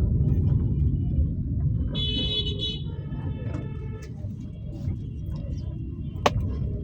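Low, steady road and engine rumble of a Toyota Axio driving in city traffic. A high-pitched horn toots briefly about two seconds in, fainter tones follow, and a sharp click comes near the end.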